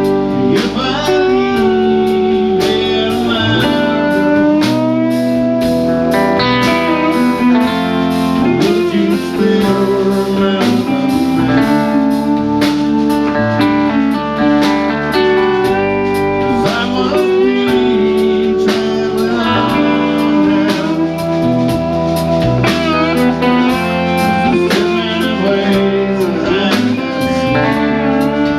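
Live rock band playing an instrumental passage: sustained, bending electric lead guitar lines over bass and a steady drum beat.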